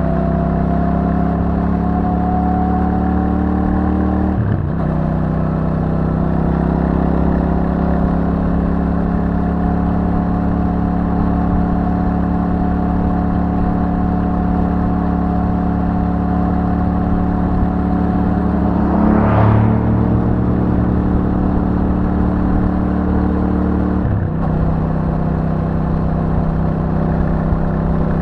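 Royal Enfield Super Meteor 650's 648 cc parallel-twin running through its stock exhaust at a steady cruise, the note slowly climbing. The note breaks briefly about four seconds in and again near the end, and a short whoosh of noise swells up about two-thirds of the way through.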